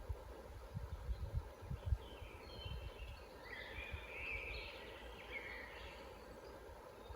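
Woodland songbirds singing a string of short, high chirping phrases in the middle of the stretch, over a steady low background hum. A few dull low thumps come in the first couple of seconds.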